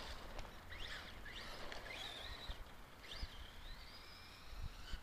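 Electric motor of a radio-controlled stadium truck whining, its pitch rising and falling in short bursts with the throttle, then climbing steadily in one long rising whine near the end as the truck speeds up.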